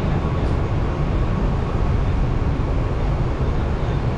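ICF-built Mumbai suburban electric local train running, heard from aboard: a steady rumble of wheels on the track.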